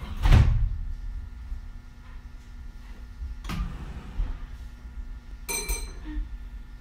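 On board a Meitetsu 3100 series electric train standing still: a low steady rumble with two thumps about three seconds apart and a brief high ringing tone about five and a half seconds in.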